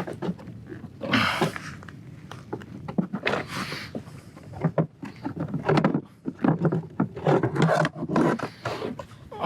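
A redfish being handled and laid out for measuring on a kayak: a run of irregular knocks, scrapes and rustles, with a few low-pitched grunting sounds in the second half.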